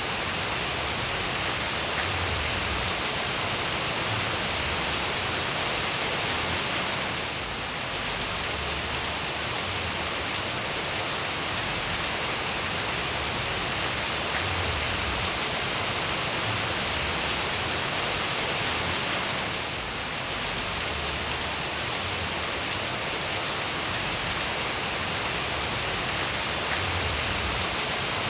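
Steady rain falling, a dense even hiss with no single drops standing out. The loudness dips slightly twice, about a quarter and two-thirds of the way through.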